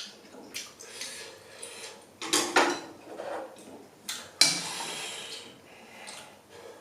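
Ramen being eaten: sharp clicks of utensils against a dish, with noisy bursts of noodle-eating sounds, the longest about four and a half seconds in.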